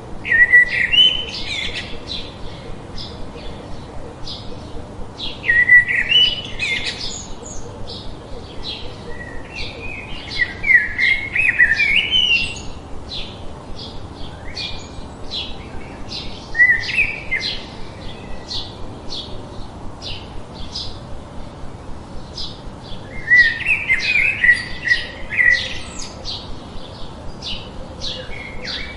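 Birdsong: a steady series of short, high chirps about two or three a second, with louder warbled song phrases breaking in several times.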